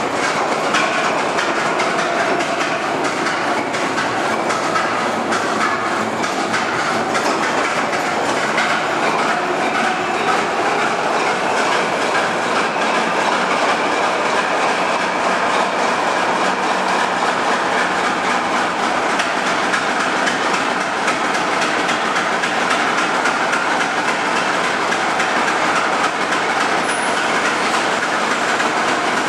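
Locomotive running or rolling on rails: a steady, even mechanical noise with fine clatter throughout.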